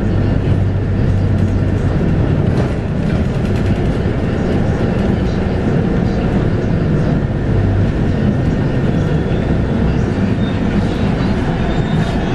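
Scania K230UB bus under way, heard from inside the cabin: the 8.9-litre five-cylinder Scania DC9 diesel drones steadily through its ZF Ecomat automatic gearbox, the low note shifting about eight seconds in.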